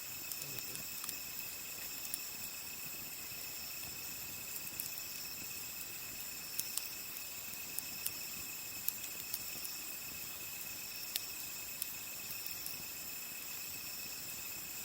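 Campfire of burning wood crackling, with irregular sharp pops, over a steady high-pitched trilling of crickets.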